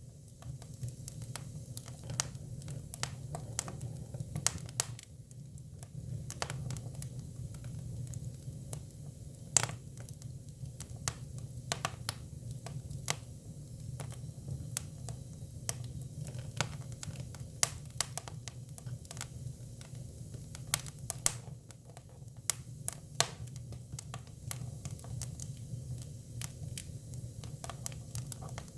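Hinoki cypress firewood burning, crackling with irregular sharp pops over a steady low hum of the fire.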